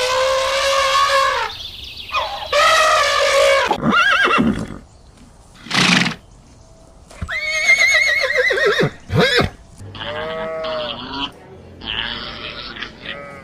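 A string of different farm animal calls in quick succession, each about a second or shorter, with short gaps between them; several waver in pitch.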